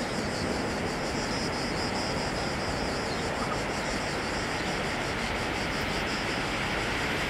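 Electric freight train hauled by an E483 locomotive approaching from a distance: a steady rumble and hiss that does not yet grow louder.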